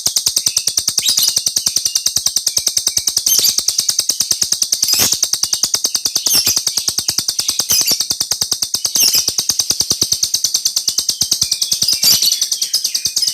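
Small bird singing a long, unbroken rolling trill: rapid, evenly spaced high-pitched notes, about fifteen a second, with a louder note breaking in roughly every second and a half.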